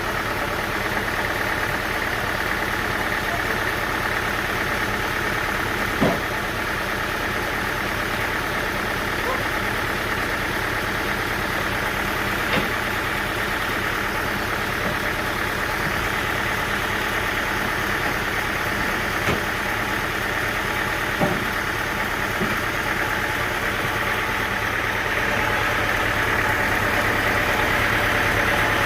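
An engine running steadily at idle, with a few sharp knocks.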